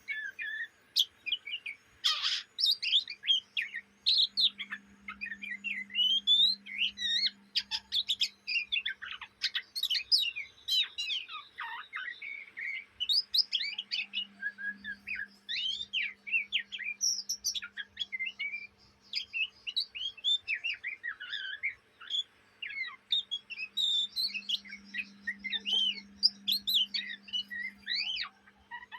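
Young oriental magpie-robin (kacer) twittering almost without pause: rapid strings of quick chirps and short rising and falling whistles, the restless chattering song that keepers call ngriwik.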